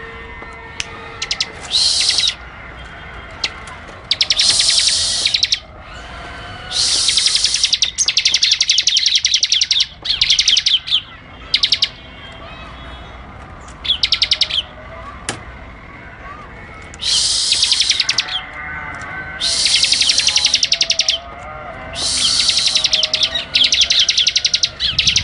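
Bar-winged prinia (ciblek) in vigorous song: about ten bursts of a very rapid, buzzy high trill, each one to two seconds long, with short pauses between. Fainter, lower warbling runs underneath.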